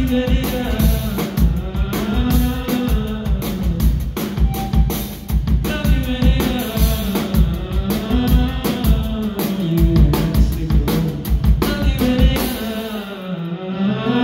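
Live rock band music with a full drum kit and a gliding melodic line above it. About thirteen seconds in, the cymbals and drums drop away, leaving the lower instruments.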